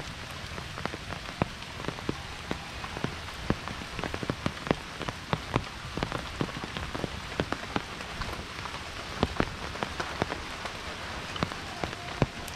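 Heavy monsoon rain falling steadily: an even hiss of rain with many big drops striking close by as sharp, irregular taps.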